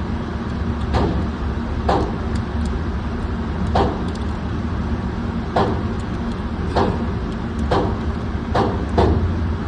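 Gunshots at an indoor range: about nine sharp reports, each with a short echo, fired at an unhurried pace roughly a second apart, with the last few coming quicker near the end. A steady low hum runs underneath.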